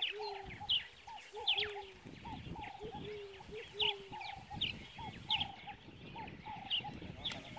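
Birds calling over and over: short high chirps that fall in pitch, about one a second, and lower, fuller calls in pairs, most of them in the first half.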